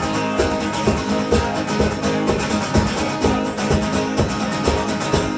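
A live band playing an instrumental passage between sung lines: strummed guitar over a steady beat.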